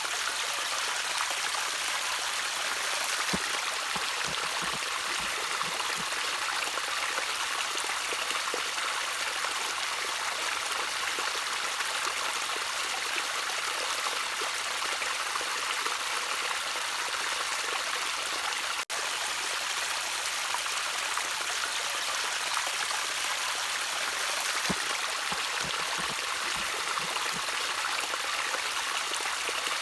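Gentle trickling water running steadily as a stream, an even hiss with a few soft low gurgles a few seconds in and again near the end. The sound cuts out for an instant about two-thirds of the way through.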